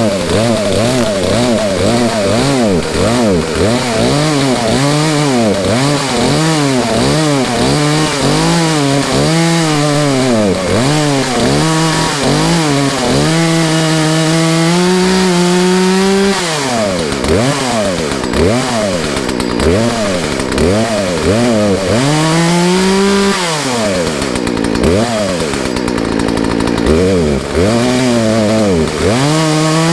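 Poulan two-stroke chainsaw engine running with a freshly rebuilt Zama carburetor, its throttle blipped again and again so the pitch rises and falls about once a second, with longer revs held high near the middle and near the end.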